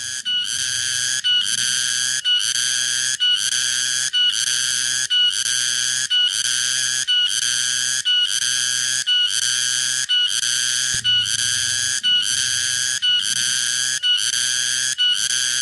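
Tonggeret cicada calling: a loud, shrill whistle-like call broken into regular pulses, a little more than one a second.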